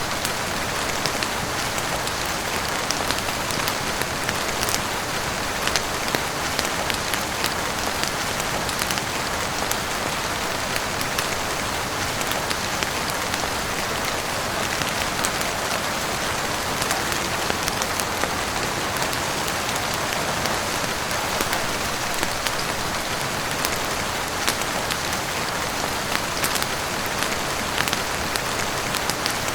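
Heavy rain falling steadily on a roof and windows, an even wash of sound with scattered sharp ticks throughout.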